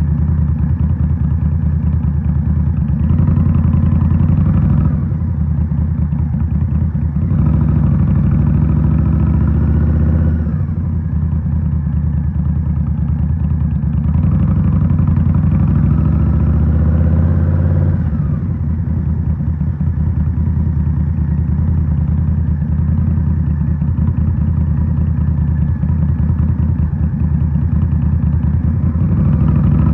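Indian Scout Rogue's 69-cubic-inch V-twin running through a Rinehart slip-on exhaust under way. The engine pulls up in pitch several times, about 3, 7 and 14 seconds in, dropping back each time as the throttle comes off, then runs steadily at lower revs.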